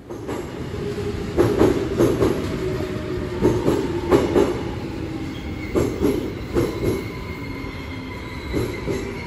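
Korail Line 1 electric commuter train pulling into the platform. Its wheels clack in pairs over the rail joints under a steady rumble with a thin whine, and it grows quieter near the end.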